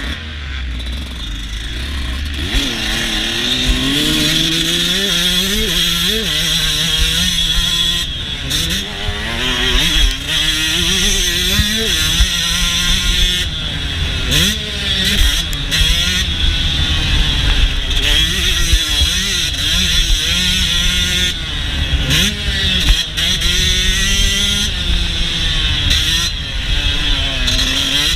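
Yamaha YZ125 single-cylinder two-stroke motocross engine on a lap, its revs climbing again and again and dropping back between climbs, with a low wind rumble on the onboard camera. The engine is quieter in the first couple of seconds, then pulls hard for the rest of the lap.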